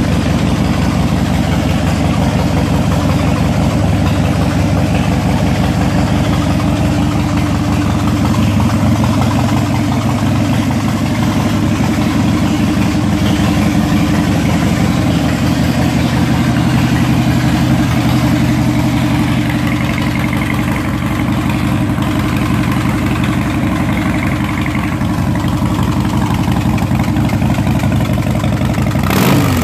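Air-cooled 1,449 cc V-twin of a 2005 Harley-Davidson Dyna Super Glide Custom idling steadily through its aftermarket exhaust, a loud, even, low pulsing.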